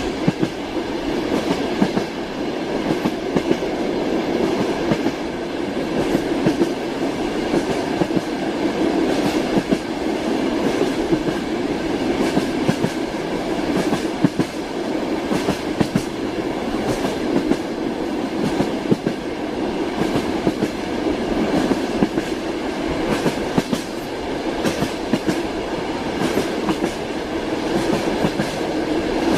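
Train wheels clacking over rail joints, heard from inside a moving railway carriage: a steady rolling rumble with a continuous run of uneven clicks and knocks.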